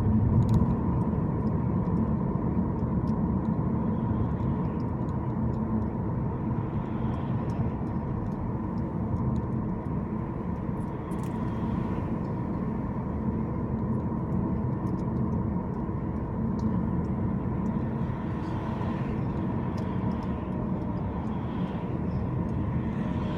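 Car driving at a steady pace: constant low road and engine rumble, with a faint steady high tone running through it.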